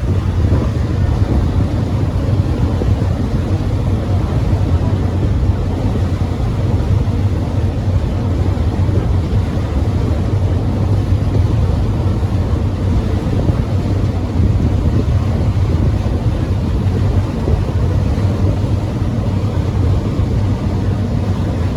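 Passenger ferry's engines running, a steady low drone heard on board.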